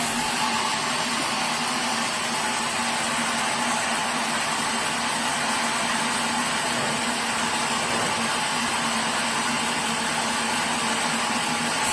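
Sawmill machinery running steadily: an even mechanical drone with a constant hum, holding the same pitch and level throughout.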